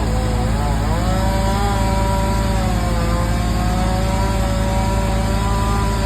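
A powered engine runs steadily and loudly, its pitch dipping briefly under load just after the start and then recovering.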